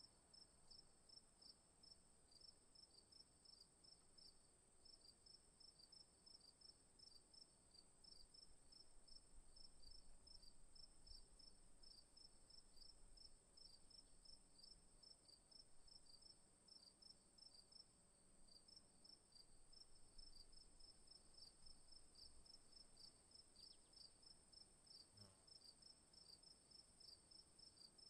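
Crickets chirping faintly: a steady high trill with a rhythmic chirping pulsing over it.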